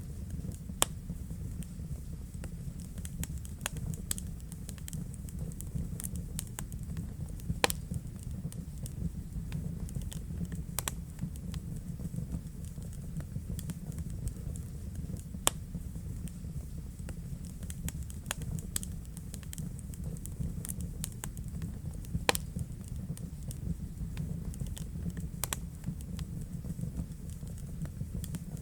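Wood fire burning in a fireplace: a steady low rumble of the flames with irregular crackles and pops, a few sharp, loud snaps standing out.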